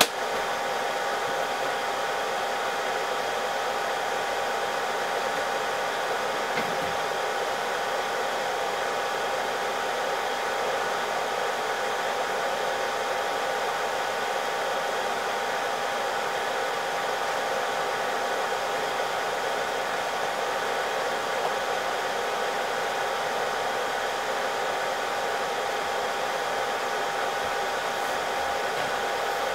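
Hot air gun blowing steadily during a laptop GPU reflow, a constant rush of air with a steady whine from its fan.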